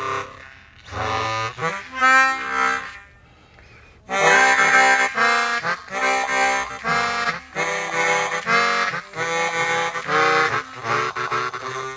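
Suzuki Sirius S48B bass chromatic harmonica played through a Boss MD500 modulation effects pedal with added reverb, its notes wavering from the effect. A short phrase about a second in, a brief pause, then a longer run of short notes.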